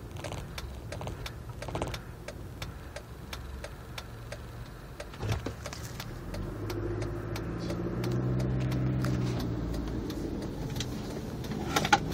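Jeep engine at a rough idle with a rapid, regular ticking. About six seconds in, the engine speeds up and runs louder with a wavering pitch. A sharp click comes near the end.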